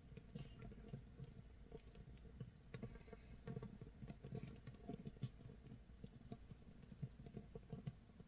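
Makgeolli starter mash (mitsul) actively fermenting in a jar, about 24 hours in: a faint, dense, irregular crackle of small pops as carbon dioxide bubbles burst in the mash. It sounds like rain, toasting rice crust, or burning firewood.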